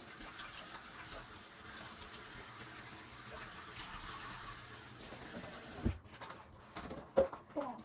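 Water running steadily from a tap, cut off suddenly about six seconds in, followed by a single knock and a few short clicks.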